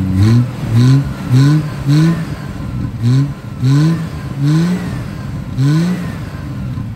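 Triumph TR6's straight-six engine, just brought back to running, revved in a string of about eight short throttle blips, each rising in pitch and dropping back to idle in between.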